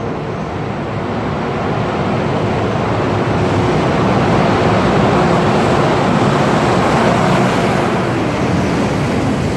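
Freight train hauled by a JR Freight EH200 electric locomotive passing through the station at speed: a steady rushing rumble that grows louder over the first few seconds and then stays loud.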